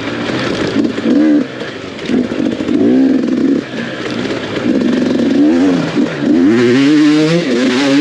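Off-road dirt bike engine revving hard under race throttle, its pitch climbing and falling repeatedly with a few brief dips as the throttle is chopped and picked up again.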